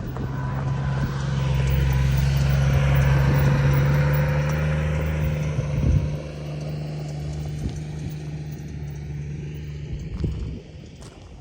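A motor vehicle's engine running at a steady pitch, swelling louder over the first few seconds, then easing off, and cutting away about ten and a half seconds in.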